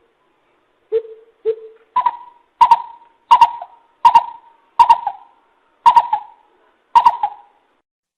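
Coucal calling: a series of about nine hollow hoots, the first two low and the rest higher, spaced roughly every half to one second, each with a short echoing tail.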